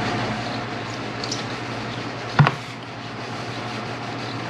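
Steady mechanical background hum, with one sharp knock about two and a half seconds in.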